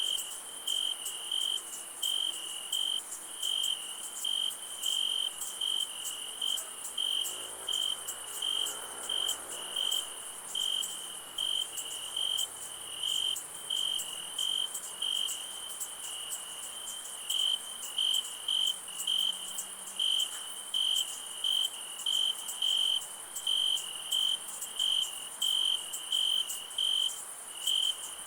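Night crickets chirping in a steady, even pulsing rhythm, with a higher continuous insect trill running underneath.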